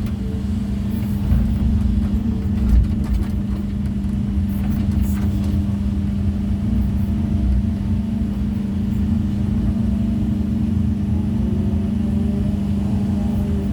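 Excavator's diesel engine running at a steady pitch while stone is being placed, with a few short knocks.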